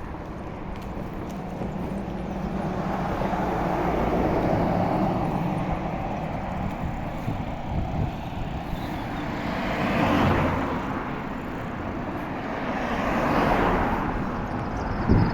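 Road traffic: about three vehicles passing one after another, each a swelling and fading rush of engine and tyre noise, over a steady low rumble.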